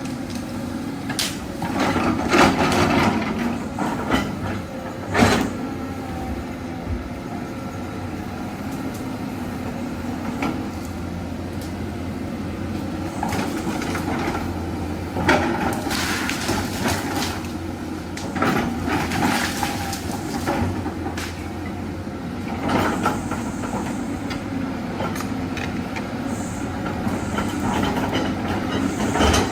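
Diesel engine of a tracked earthmoving machine running steadily under load, with repeated clanks, knocks and clatter of metal working dirt and rock.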